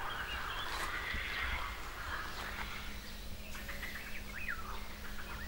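Birds chirping and calling faintly over outdoor ambience, with a faint steady low hum joining about two seconds in.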